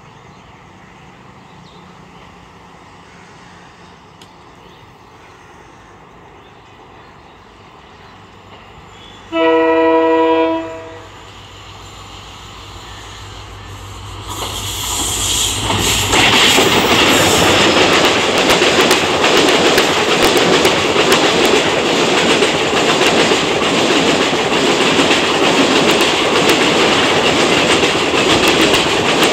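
An Indian Railways express train's electric locomotive sounds one horn blast of about a second and a half, a chord of several tones. The train then runs through at speed: the rushing noise rises as the locomotive nears and stays loud as the coaches pass, with rapid clicking of wheels over the rail joints.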